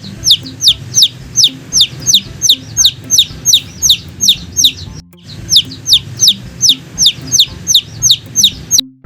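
Chicks peeping: a rapid string of high, falling peeps, about three a second, broken by a short pause about five seconds in.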